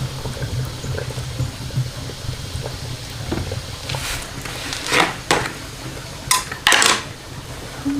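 Water sloshing with a steady low hum, and several sharp clatters of pots and kitchenware in the second half.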